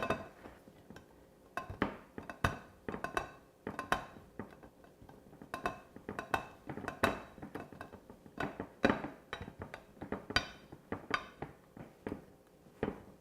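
Cheddar cheese being grated by hand on a Microplane adjustable coarse grater into a bowl: a long run of short, irregular scraping strokes.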